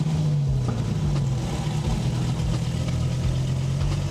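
Dodge Viper V10 engine running at low revs: a steady, deep exhaust drone that eases down in pitch over the first second and a half, then holds steady.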